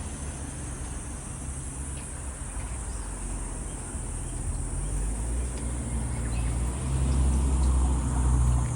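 Low engine rumble of a passing vehicle, growing louder over the second half, over a steady high-pitched insect trill.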